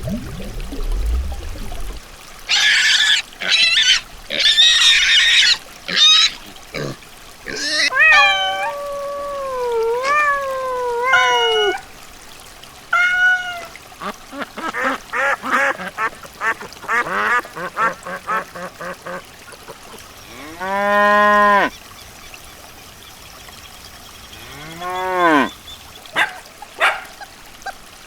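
A run of calls from several different animals, one after another: harsh noisy calls, long bending pitched calls, a quick series of short calls and a couple of single arching calls.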